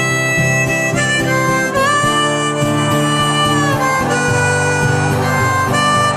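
Harmonica playing a melody of long held notes, some bent down in pitch, over acoustic guitar accompaniment: the instrumental intro of a karaoke backing track.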